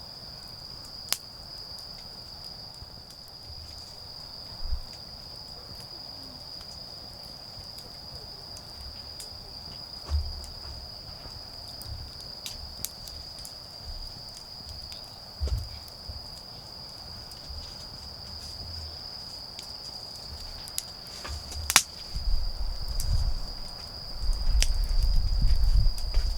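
Autumn crickets trilling steadily on one high note, with a few sharp cracks from a wood bonfire. Low thumps and rustling come in near the end.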